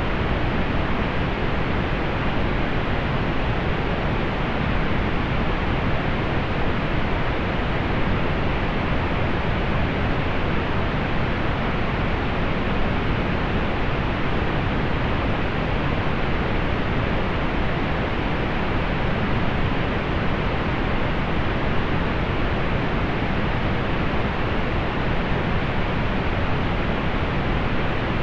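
Soft, steady pink noise: an even, unchanging hiss with little in the highest treble.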